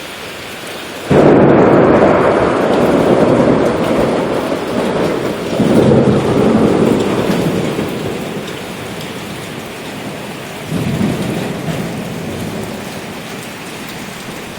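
Heavy downpour rain falling steadily. About a second in a sudden loud swell comes in and dies away over several seconds, with another smaller surge near the end.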